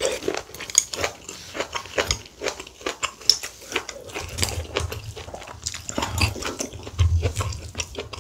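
Close-miked chewing of a mouthful of kimchi stew and rice: a dense run of wet mouth clicks and smacks, with dull low thumps through the second half.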